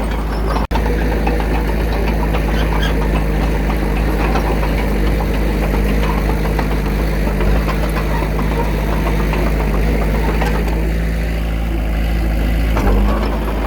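Diesel engine of earthmoving machinery, a small bulldozer or dump truck, running steadily, with a brief dropout under a second in and a shift in its note near the end.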